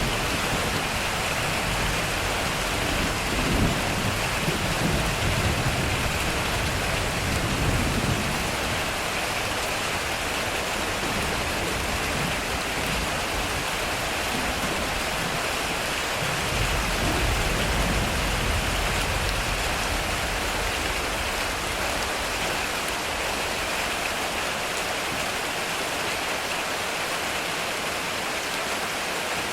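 Heavy rain falling steadily on a metal roof, with thunder rumbling low twice: once in the first several seconds and again a little past the middle.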